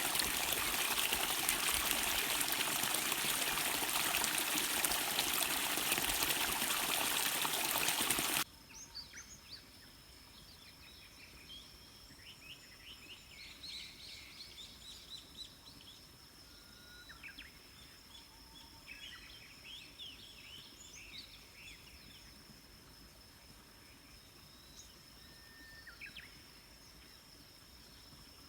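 Stream water rushing steadily, cut off abruptly about eight seconds in. After it, small birds chirp now and then over a faint, steady high-pitched insect drone.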